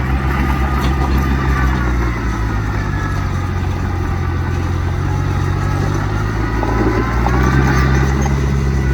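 Heavy diesel engine of earthmoving machinery running steadily, its pitch easing down about two seconds in and climbing again with a little more power near the end.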